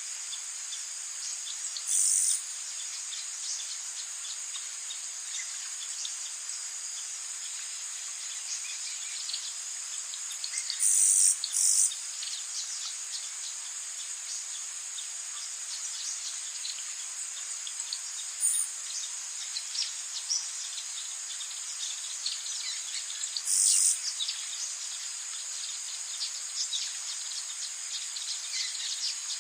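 Rainforest ambience: a steady high-pitched chorus of crickets and other insects with scattered small bird chirps. About five short, louder high-pitched calls stand out, at about two seconds in, twice around eleven seconds, near the middle and about three-quarters through.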